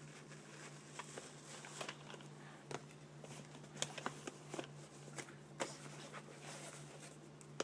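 Light, scattered taps and clicks of a makeup palette being handled, over a faint steady low hum.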